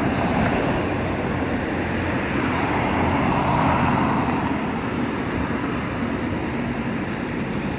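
Street traffic noise: a steady engine rumble, with a vehicle swelling past about three to four seconds in.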